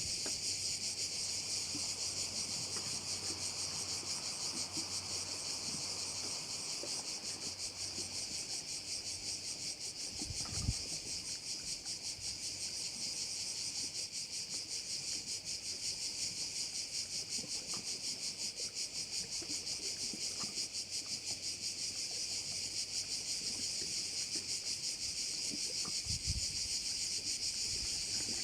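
Chorus of cicadas shrilling steadily, a dense high-pitched buzz with a fast pulse. A brief low thump sounds about ten seconds in and another low rumble near the end.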